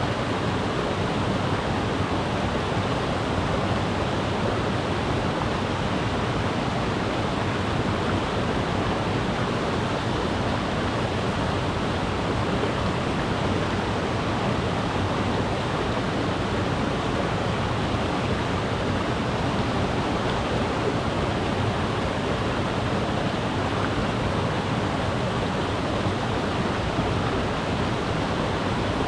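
Mountain river rushing over rocks: a steady, even roar of water.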